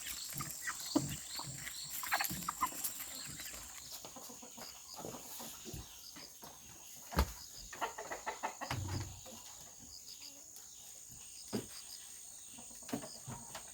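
Chickens clucking now and then over a steady high-pitched insect buzz, with a few sharp knocks, the loudest about halfway through.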